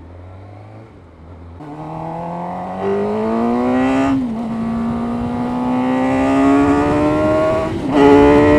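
Suzuki GSX-R 600's inline-four engine on its stock exhaust can, low and steady at first, then accelerating hard from about a second and a half in. The revs climb, drop briefly at a gear change about four seconds in, climb again, and drop at another shift near the end.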